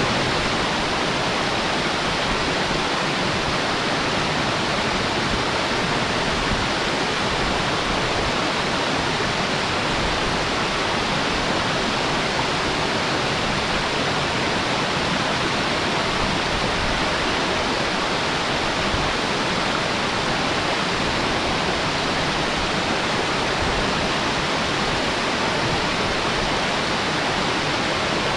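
Sudare Falls' waterfall: a steady, unbroken rush of falling water, even throughout with no distinct splashes or breaks.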